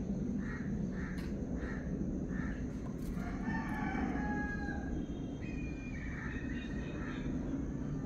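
Bird calls over a steady low rumble: a run of five short, evenly spaced notes, then two longer drawn-out pitched calls.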